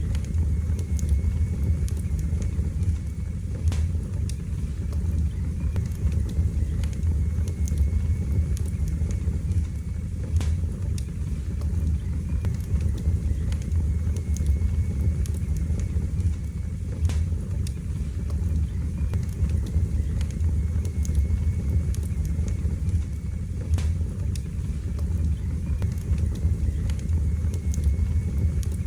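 Wood fire burning in a fireplace: a steady low rumble of the flames with scattered sharp crackles and pops every few seconds.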